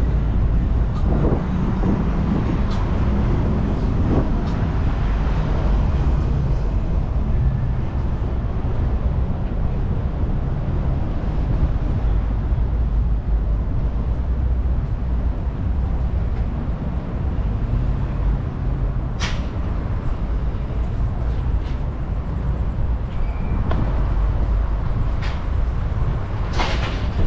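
Steady low rumble of wind and road noise while riding a bicycle along city streets, with a few sharp clicks, one about two-thirds of the way through and one near the end.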